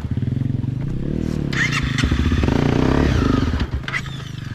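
Motorcycle engine running under way, its pitch rising and falling as it revs, with some clatter; it eases off near the end.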